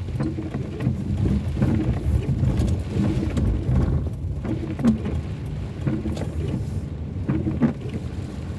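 Car engine and road noise heard from inside the cabin while driving on wet roads: a steady low rumble.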